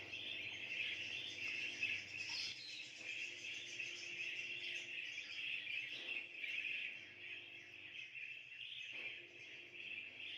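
Small cage birds chattering and twittering continuously, with a few faint knocks.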